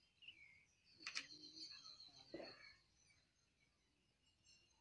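Faint birds calling in the trees: scattered short chirps and a thin high whistled note lasting about a second, with a sharp click just before it, about a second in.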